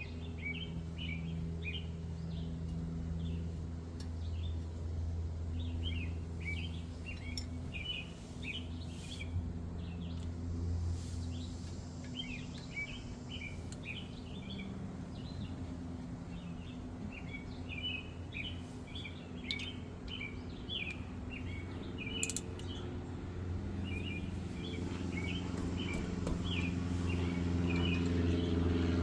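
Small birds chirping in quick clusters of short notes, again and again, over a steady low hum.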